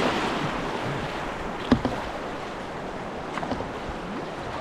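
River water rushing steadily around a kayak, with one sharp knock about a second and a half in and a few lighter knocks later.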